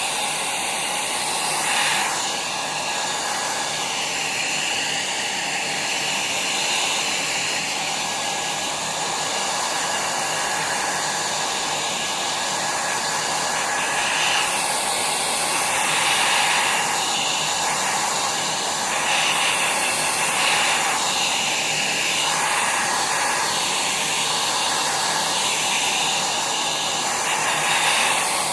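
Small hand-held hair dryer blowing steadily, drying wet ink and colour on rice paper, its airflow shifting slightly as it is moved over the painting.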